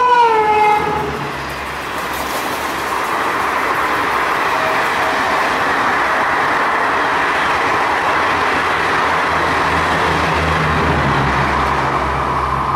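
WAP-5 electric locomotive passing at about 130 km/h with its horn sounding, the horn's pitch dropping as it goes by and cutting off about a second in. Then its coaches rush past with a steady noise of wheels on rail.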